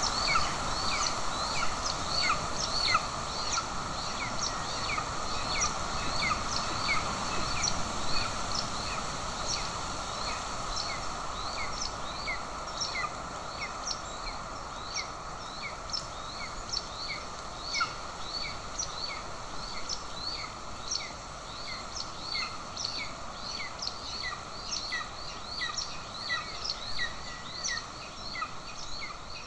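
Golden eagle chick begging at the nest: a long, even series of thin, high, downslurred peeps, about two a second, over a steady hiss.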